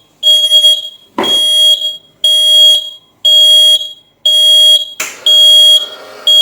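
Floor scrubber's reversing beeper sounding a pitched beep about once a second, the signal that the drive is running in reverse. There is a knock about a second in, and a steady noise joins the beeps near the end.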